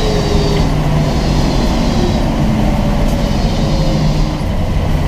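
Twin-turbo LS 427 V8 in a 1963 Chevy Nova, heard from inside the car, running at low, fairly steady revs with a loud, rough rumble.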